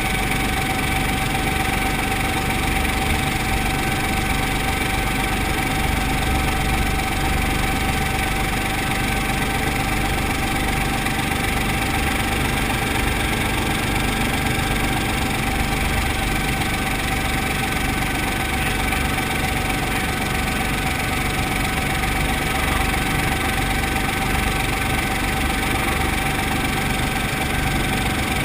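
Brantly B2B helicopter's piston engine and rotor running steadily: a constant drone with a thin steady tone through it, unchanging throughout.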